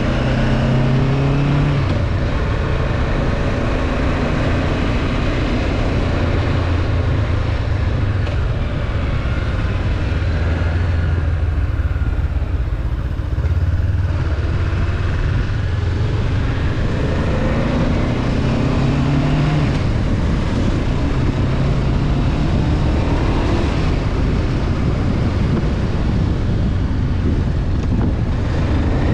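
Honda CB500F parallel-twin motorcycle engine running on the road, its pitch climbing and dropping with the throttle several times and easing off briefly about halfway, over steady wind and road noise.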